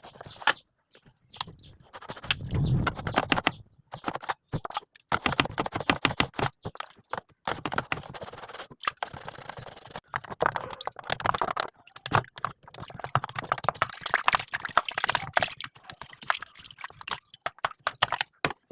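Hand scrubbing and scraping on washing machine parts: dense, irregular strokes with short pauses, and a heavier rubbing stretch about two to three seconds in.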